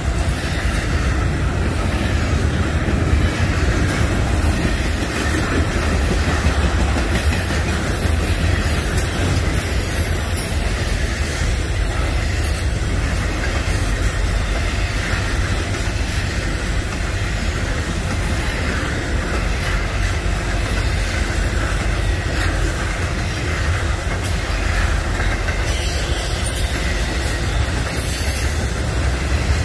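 A freight train's cars rolling past on the main line: a steady, continuous rumble of steel wheels on rail.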